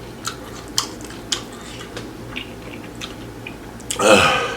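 Close-up chewing of a crunchy taco shell, with sharp crackling crunches about every half second at first, then softer ones. About four seconds in, a short loud vocal sound from the eater, falling in pitch.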